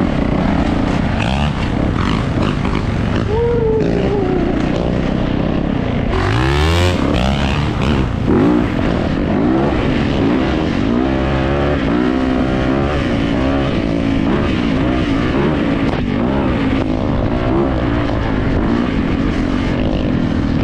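Yamaha YZ450F dirt bike's 450 cc single-cylinder four-stroke engine running under way, its pitch rising and falling with the throttle and gear changes. About six seconds in comes a sharp rev that climbs steeply.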